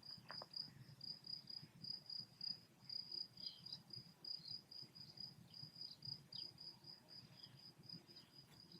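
Faint cricket chirping: a steady, evenly pulsed high trill at one pitch, about five chirps a second.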